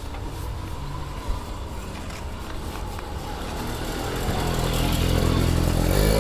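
A motor vehicle's engine running steadily, growing louder over the last couple of seconds as it draws near.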